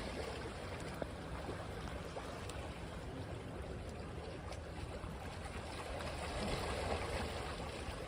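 Sea waves washing on a beach: a steady rush of water that swells a little about six seconds in.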